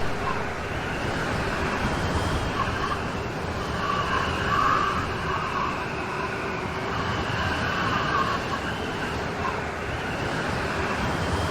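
Rain storm: rain falling steadily as an even hiss, with a higher band that swells and fades every few seconds.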